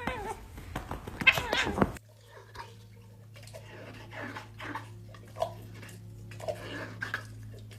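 A cat meowing loudly in drawn-out calls for about two seconds, then a sudden change to a quieter scene with a steady low hum and soft, scattered animal sounds.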